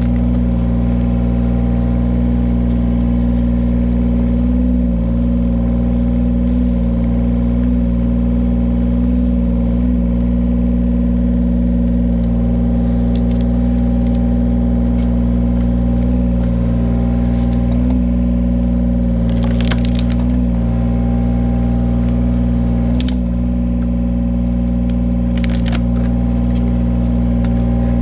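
Engine of a firewood-splitting machine running steadily under load, with a few sharp cracks of wood splitting, most of them in the second half.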